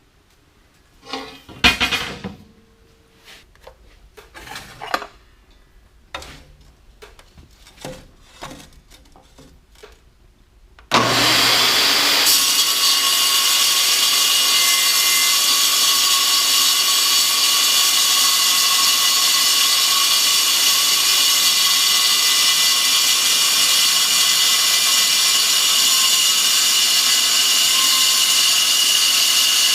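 A few scattered clicks and knocks of metal being handled, then about eleven seconds in a power saw starts abruptly and runs steadily, cutting quarter-inch steel plate with a loud, even hiss and a few steady tones.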